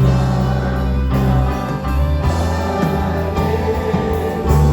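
Worship band playing an instrumental pause between sung lines, with held bass and chords; the end of a sung word is heard at the start.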